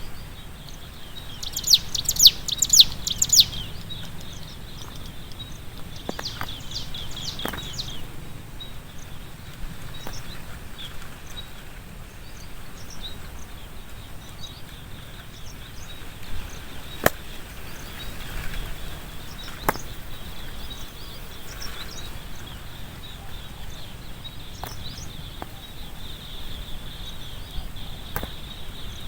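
Small bird chirping in quick rapid series, about a second in and again around six seconds, over a steady faint high-pitched background hiss, with a few sharp clicks later on.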